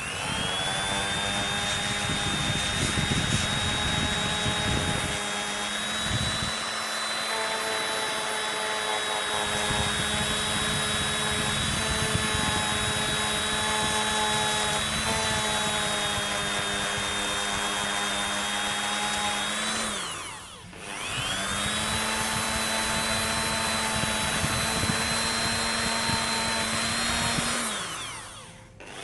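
Small high-speed rotary tool spinning up and running steady, grinding cured epoxy glue, with its lower tones shifting as the bit is pressed on and eased off. It winds down and restarts about two-thirds of the way through, and winds down again near the end.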